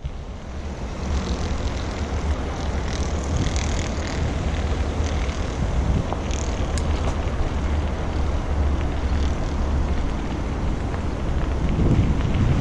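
Wind buffeting the microphone while cycling, a steady low rumble that grows louder near the end.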